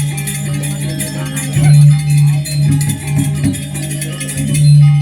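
Balinese gamelan music: a sustained low tone that swells and fades, under dense, rapid high metallic clashing.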